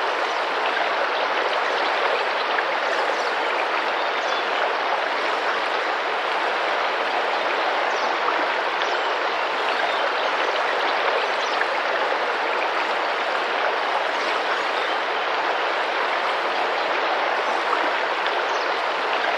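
Tropical rainforest river water running with gentle splashing, a steady, even rush.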